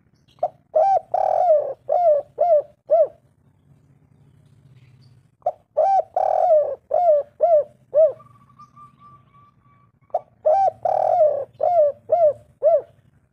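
Spotted dove (tekukur) cooing: three phrases of several quick, rounded coos each, a few seconds apart.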